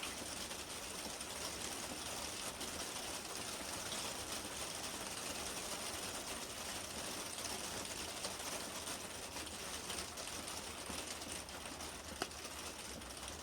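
Steady high-pitched hiss of outdoor background noise at a storm, with a few faint clicks and no thunder.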